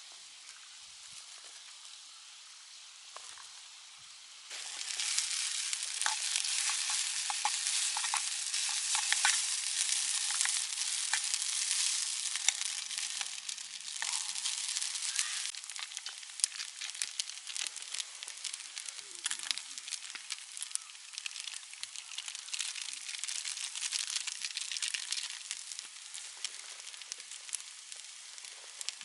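Food frying in a hot pan. A faint sizzle jumps suddenly to a loud one about four seconds in, then slowly settles, with scattered crackles and pops.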